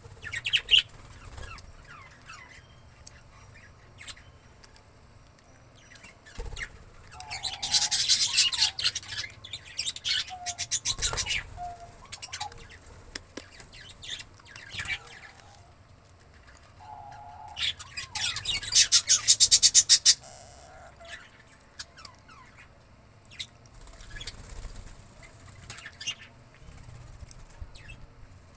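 Indian ringneck parakeet (rose-ringed parakeet) calling: bursts of rapid, high, shrill chatter, loudest twice in the middle, with quieter short notes in between.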